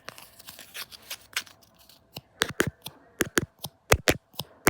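A run of sharp, irregular clicks and taps, sparse at first and coming quicker and louder from about halfway through.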